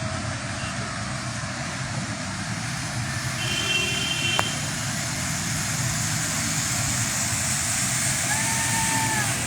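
Steady hiss of rain mixed with traffic on wet streets. A brief high beep comes about three and a half seconds in, and a short sustained tone near the end.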